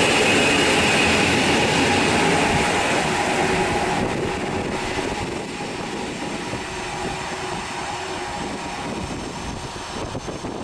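Electric multiple-unit train pulling out along the platform, its motor whine and wheel noise fading over the first few seconds. A quieter, steady rumble follows as an EN57 electric unit approaches.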